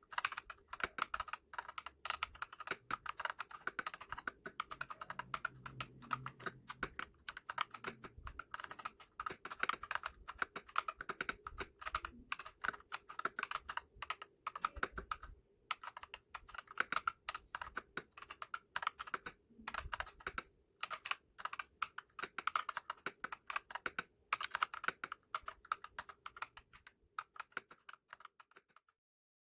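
Typing on a Redragon K596 mechanical keyboard with Akko CS Lavender Purple tactile switches and HyperX PBT pudding keycaps: a fast, continuous run of keystroke clacks with a couple of short pauses, stopping shortly before the end.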